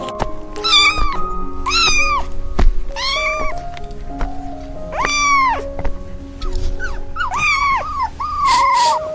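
Cat meowing about seven times, each meow rising then falling in pitch, over background music, with a few sharp knocks in the first three seconds.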